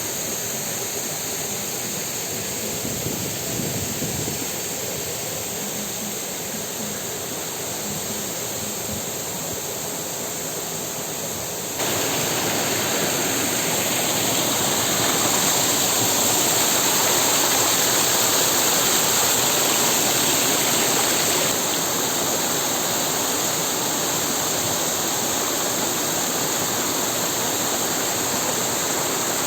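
Waterfall and river water rushing steadily. It jumps abruptly louder about twelve seconds in and drops back a little about ten seconds later.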